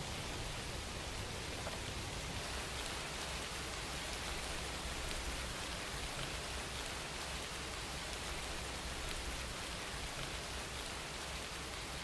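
Steady rain falling, an even hiss of rain with faint patter of individual drops.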